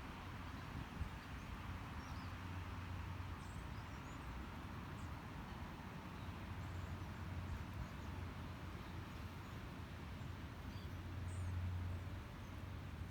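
Scattered faint, short, high bird chirps over a steady low hum and hiss; the hum swells briefly near the end.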